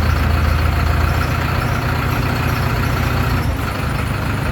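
Heavy truck engine running steadily at idle, with a low, even pulsing throb.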